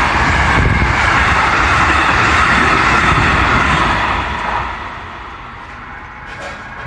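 A train running past on the rails: a loud, steady rumble and rail noise that fades away about four to five seconds in as it moves off.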